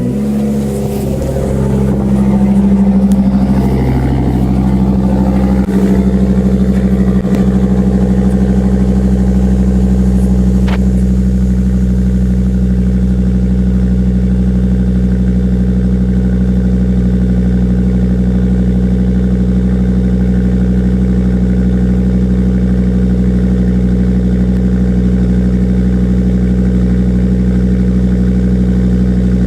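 Cold start of a 2006 Volvo S80's 2.5-litre turbocharged inline-five, heard through a muffler-delete exhaust. The engine catches and runs a little unevenly for the first few seconds, then settles into a steady, loud cold idle.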